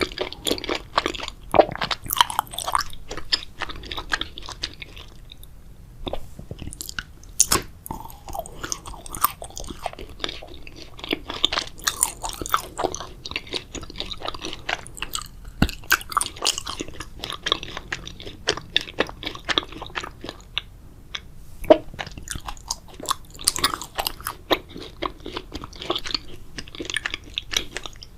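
Close-miked ASMR eating of grape jelly: wet chewing, squelching and smacking mouth sounds with irregular sharp clicks, pausing briefly a couple of times.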